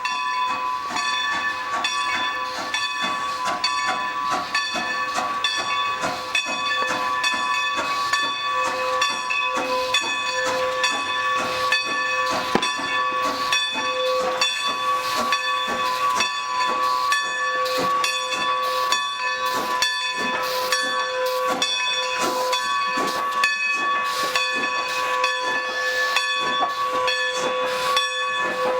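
Steam locomotive venting steam: a loud, steady hiss carrying several fixed whistle-like tones, with many sharp clicks throughout.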